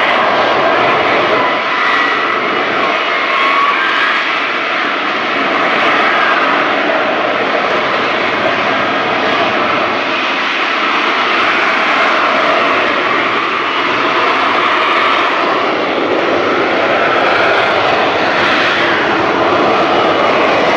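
Lockheed Martin F-35B Lightning II's Pratt & Whitney F135 jet engine running loud and steady, with faint whining tones over the jet noise and only small swells and dips in level.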